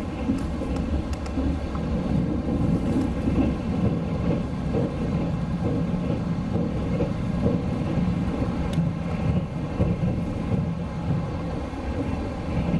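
Sleeper-train passenger car running at speed, heard from inside the compartment: a steady low rumble of wheels on rails with a few faint clicks.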